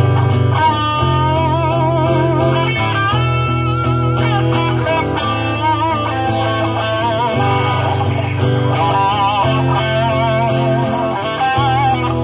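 Live band playing an instrumental break: a guitar melody with wide vibrato over a steady bass line.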